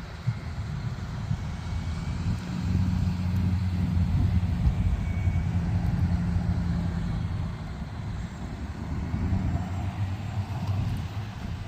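Truck engine running with a steady low drone that grows louder about three seconds in and eases off again after about seven seconds.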